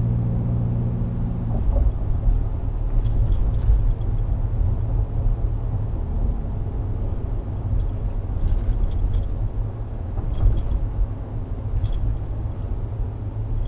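Cabin sound of a Dodge Ram 1500's 5.7-litre Hemi V8 pickup driving: a steady engine hum that eases about a second and a half in, then low road rumble. Loose keys jingle lightly now and then, a few times.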